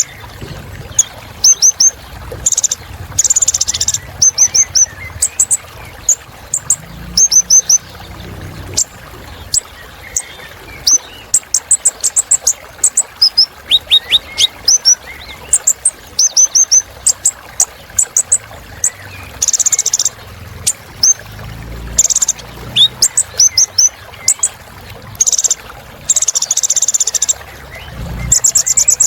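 Sunbird (the 'kolibri ninja') singing a rapid, varied song: quick series of high, thin chirps and trills with short buzzy bursts, and a falling run of notes about halfway through.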